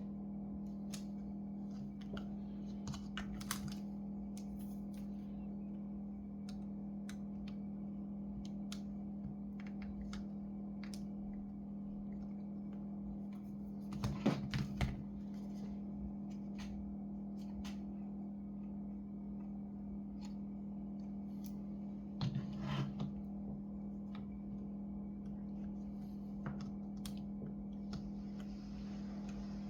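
Scattered light clicks and taps of small parts and tools being handled on an opened laptop, with two short bursts of louder clatter near the middle and about three-quarters through, over a steady low hum.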